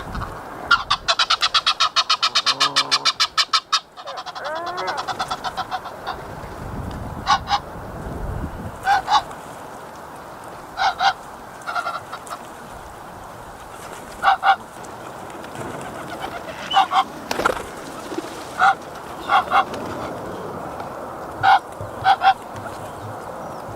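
Geese honking: a fast run of honks during the first few seconds, then short single and paired honks every second or two.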